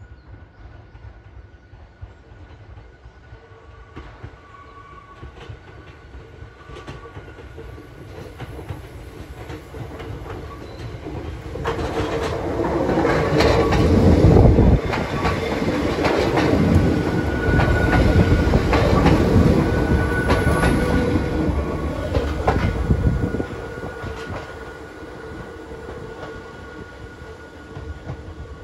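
A Hakone Tozan Railway electric train passes close by. The rumble and clatter of its wheels on the rails build up, run loudest for about ten seconds with rapid clicks, then drop away suddenly.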